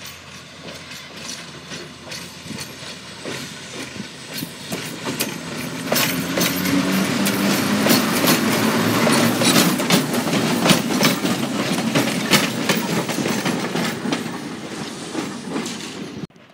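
A train passing close by, its wheels clicking over the rail joints; it grows louder over the first six seconds, stays loud, then fades and cuts off abruptly just before the end.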